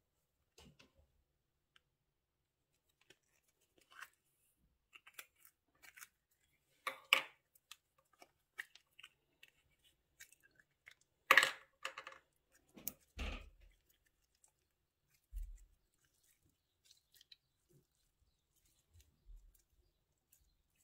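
Scattered short crackles, snips and clicks from hands working with plastic bags and slime materials, the loudest two about 7 and 11 seconds in.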